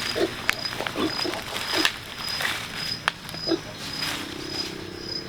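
Pigs grunting in short calls, several times, with sharp clicks and knocks in between.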